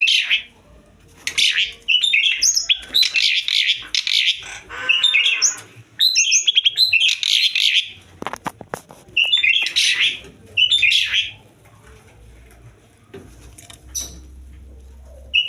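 Asian pied starling (jalak suren) giving loud, harsh chattering calls in repeated bursts, the excited calling of a bird in breeding condition. The calls stop about eleven seconds in, with a quick run of clicks a little before that.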